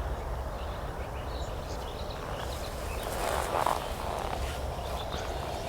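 Wetland ambience: a steady low rumble with faint, scattered short chirps from small animals, and a brief louder rustle about three and a half seconds in.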